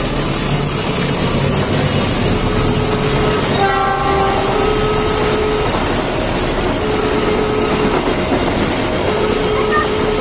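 Container freight train passing close by, a loud steady rush of wheels on rail, with a short horn blast about four seconds in.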